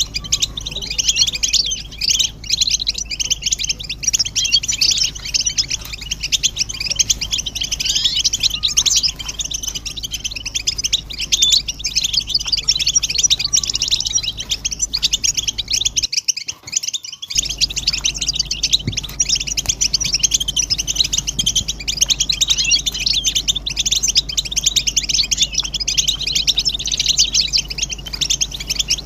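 A flock of European goldfinches twittering and calling in a dense, unbroken chorus, over a low steady hum. The whole sound cuts out for about a second roughly two-thirds of the way through, then resumes.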